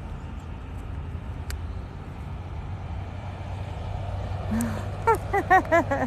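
Steady low rumble of vehicle noise. Near the end a voice makes a quick run of about five short sounds that each rise and fall in pitch.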